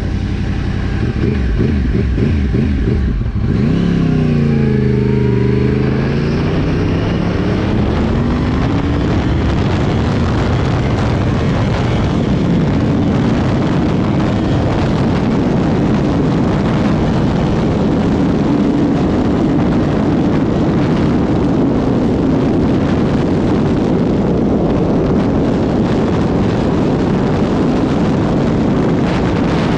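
Small moped engine running under way with wind rushing over the microphone. A few seconds in, its pitch dips and then climbs back up, and after that it holds steady under the wind.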